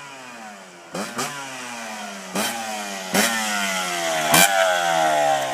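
125 cc two-stroke pit bike engine revved in about five quick throttle blips, the revs falling away slowly after each one and the blips getting louder towards the end.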